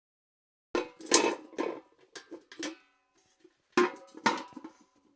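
Steel bucket clanking, with a ringing metallic tone after each hit: about six clanks over two seconds starting about a second in, then a second cluster of three or four clanks near the end.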